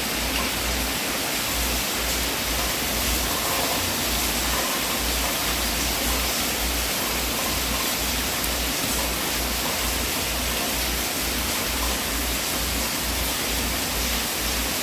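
Wood fire burning in a fireplace, a steady even hiss with no distinct crackles or pops.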